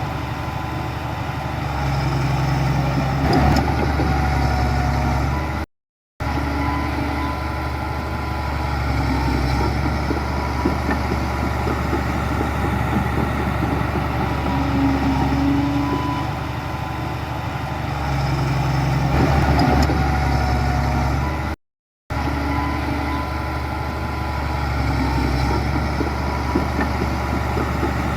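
Heavy diesel earthmoving machinery running steadily, its engine note holding fairly even with small swells in load. The sound drops out completely twice for a fraction of a second, about six seconds in and again about 22 seconds in.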